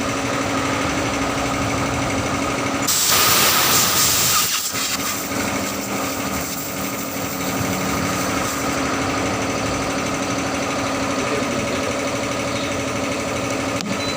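A machine in a tyre repair shop running with a steady, rapid rattle, interrupted about three seconds in by a loud burst of hiss lasting a second and a half.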